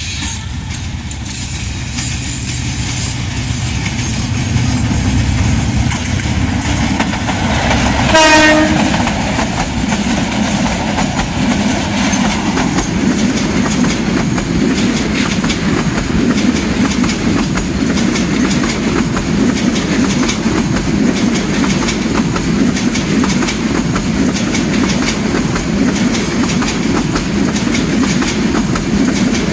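Diesel-hauled passenger train approaching with a low rumble, sounding one short horn blast about eight seconds in. Its coaches then pass close by, wheels clattering steadily over the rail joints.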